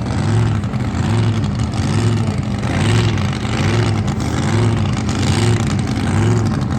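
Drag boat engine idling with a rhythmic lope, its pitch rising and falling a little over once a second.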